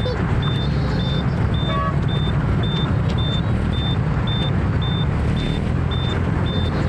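Motor scooter running through city traffic, a steady engine and road noise, with a high electronic beep repeating about twice a second throughout. A short horn honk sounds about two seconds in.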